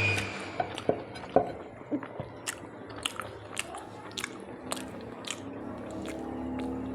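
Close-miked mouth sounds of a person eating a meal: chewing and biting, with sharp, wet clicks coming irregularly about twice a second.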